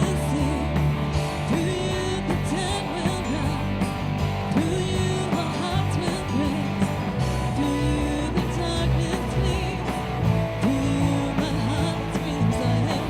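Live worship band playing a rock-style praise song, with guitar, bass and a steady beat.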